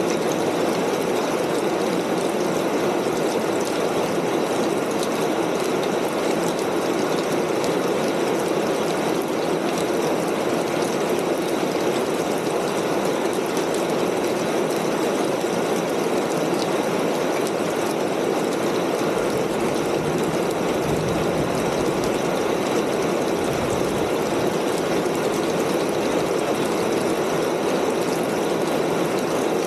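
Steady rain pattering on a corrugated tin roof, a dense, even hiss of drops.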